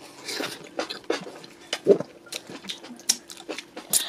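Close-up wet chewing and lip-smacking of a mouthful of fufu and egusi soup eaten by hand, with irregular mouth clicks and a sharp smack about two seconds in.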